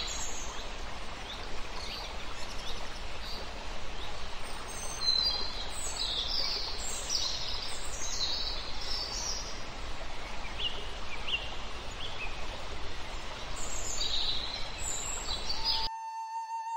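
Wild birds chirping and whistling in short calls over a steady background hiss of forest ambience. Near the end the natural sound cuts off abruptly and flute music begins.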